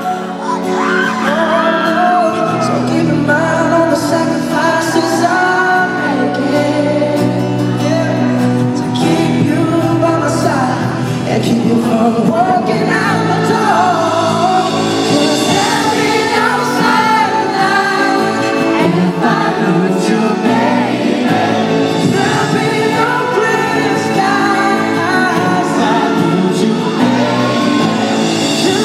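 Live concert performance of a pop ballad: a male lead voice singing over a band.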